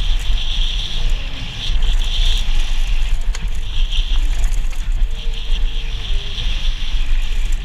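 Heavy wind buffeting on the microphone with a steady rushing hiss that swells and fades, as during a fast run.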